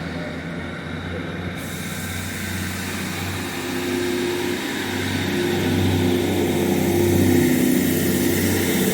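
Class 150 diesel multiple unit pulling away from the station, its diesel engines throbbing under power. The engine note builds steadily and is loudest about seven seconds in, then starts to ease as the train draws away.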